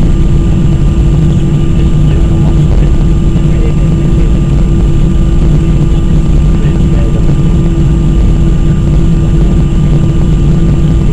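Airbus A319 jet engines running steadily, heard inside the passenger cabin as a loud, even rumble with a steady hum and a faint high whine over it.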